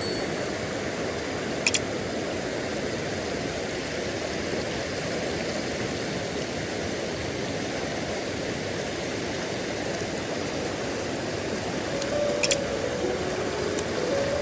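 Steady rush of flowing stream water, with two faint clicks about two seconds in and near the end.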